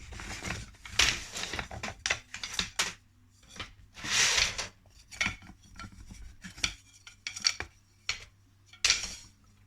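Beehive kit parts being handled and set down, with irregular clattering and knocking. There is a longer noisy stretch about four seconds in and another shortly before the end.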